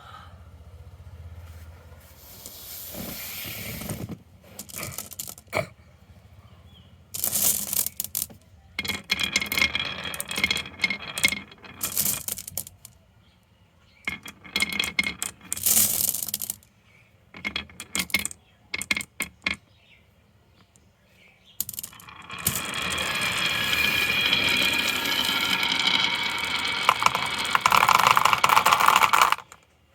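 Marbles clicking and rattling down a marble run in irregular bursts with short quiet gaps, then a long continuous rolling rattle for the last several seconds.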